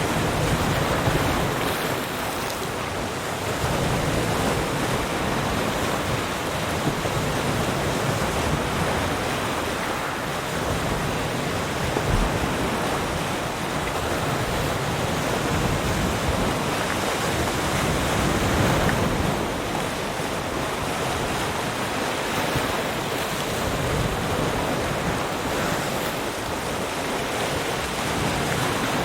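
Ocean surf: waves breaking and washing onto the shore in a continuous rush, swelling and easing every few seconds.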